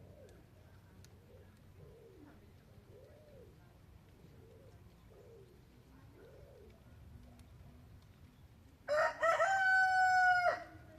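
A rooster crows once, loudly, about nine seconds in: a rising start, then a long level note of about a second and a half. Before it, faint low calls repeat about once a second.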